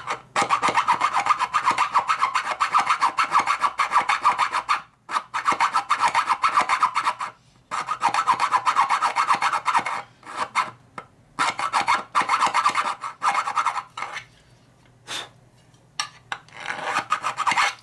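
Hand file rasping on metal in runs of quick back-and-forth strokes with short pauses between. It is elongating a bolt hole into a slot, about 30 thou, so the parts line up without binding the studs.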